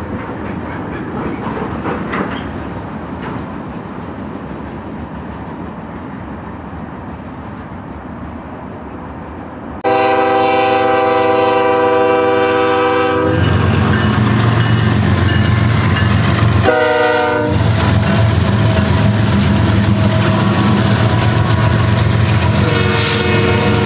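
Freight train wheels rolling on the rails as a train moves away. Then a BNSF diesel locomotive's multi-chime air horn sounds a long blast and, a few seconds later, a shorter one. The heavy rumble of the lead diesel engines fills the rest as the locomotives pass close by.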